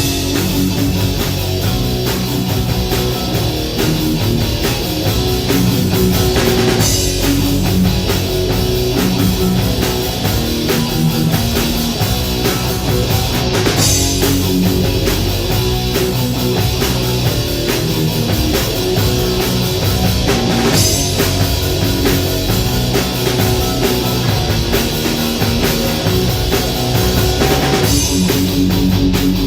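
Rock band playing an instrumental passage on guitar and drum kit, with a cymbal crash about every seven seconds.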